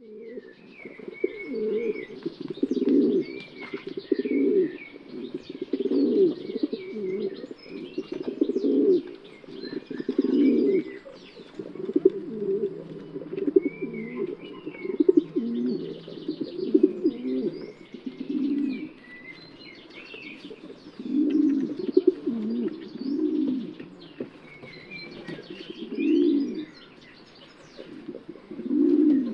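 Domestic pigeons cooing, a run of low rolling coos repeated every second or two with a short pause in the middle, while small birds chirp faintly in the background.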